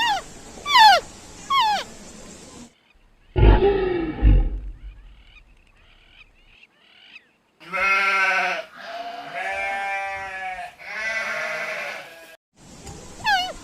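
A run of animal calls: short, high falling whimpering cries at the start, a loud low call, then three long wavering bleats, with the whimpering cries returning near the end.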